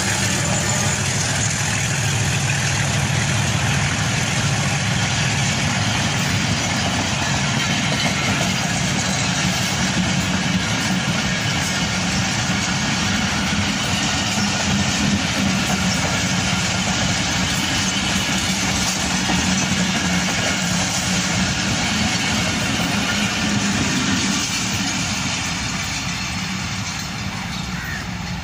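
Passenger train coaches rolling past at speed: a steady rumble of steel wheels on the rails, fading over the last few seconds as the last coach draws away.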